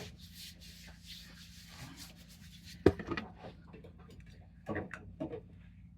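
Hands rubbing body lotion into the skin of the arms and elbows, soft faint swishes, with a single sharp click about three seconds in.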